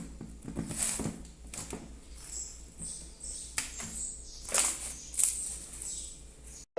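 A large mass of slime being squeezed and kneaded by hand, with irregular wet clicks and pops.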